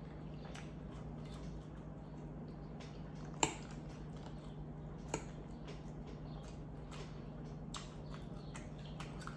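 Close-miked chewing and wet mouth sounds of someone eating cheesy pasta, with many small clicks. Two sharp clinks of a metal fork against a glass baking dish stand out, the louder about three and a half seconds in and a smaller one about five seconds in.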